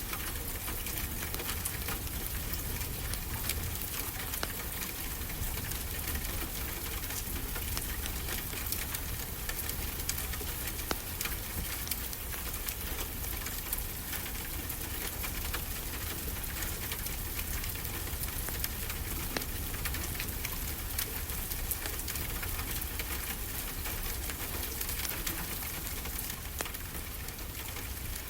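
Wood fire crackling with many small pops and snaps over a steady low rush of ocean surf.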